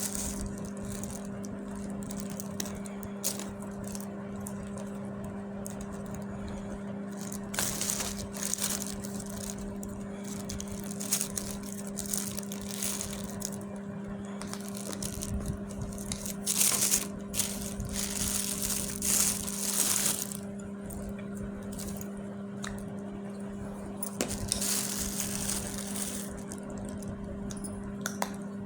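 Dried clay being crushed and crumbled, an irregular run of crunching and crackling that grows denser and louder in the middle stretch. A steady low hum runs underneath.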